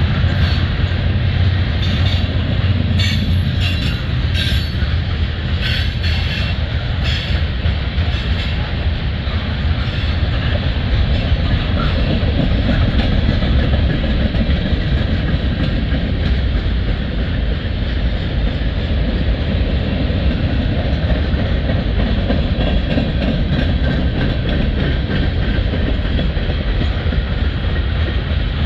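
Freight train cars rolling past close by: the steady low rumble of steel wheels on rail, with clickety-clack. A cluster of sharp metallic clicks comes a few seconds in.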